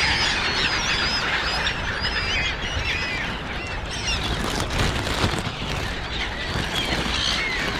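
A flock of seagulls calling over food, with many short, harsh calls overlapping into a steady din, over a low rumble of background noise.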